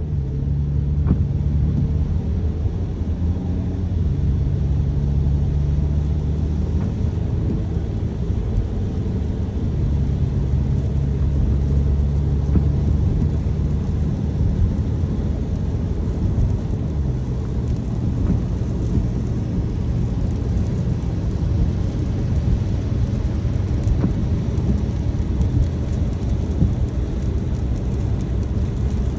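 Car driving in the rain, heard from inside the cabin: a steady low rumble of road and engine noise with rain on the car.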